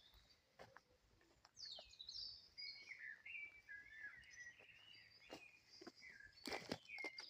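Faint birdsong: a string of short chirps and warbling phrases. A few soft clicks or knocks come through, the loudest a quick pair near the end.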